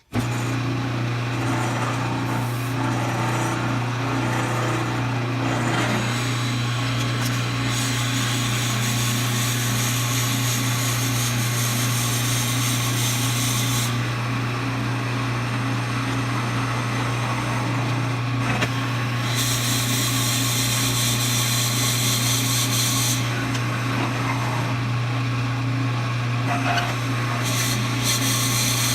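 Wood lathe running with a drill bit boring into a spinning wooden dowel: a steady motor hum under a cutting hiss that grows brighter and duller several times. The cut is a little noisier near the end, where the chips were not cleared out of the hole fast enough.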